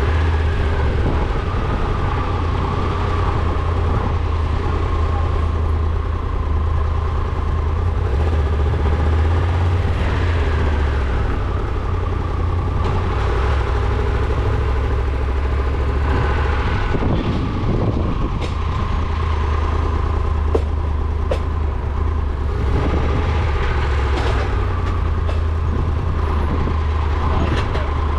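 A vehicle on the move: a steady deep engine and road rumble with a few faint clicks in the second half.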